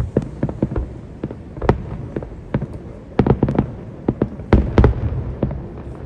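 Aerial fireworks bursting: a rapid irregular string of sharp bangs with rumbling echo, thickest about three seconds in and again near the five-second mark.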